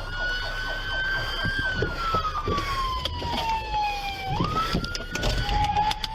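Police siren wailing, its pitch sliding slowly down and then jumping back up about every four seconds. A second, lower siren joins near the end, over road noise and a few knocks.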